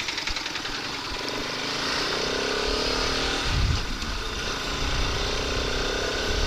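Motorcycle engine running under way, its note rising slowly, dropping back about halfway, then rising again, with wind buffeting the microphone.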